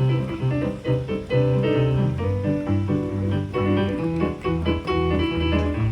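Live band music led by piano: chords and melody notes over a moving low bass line.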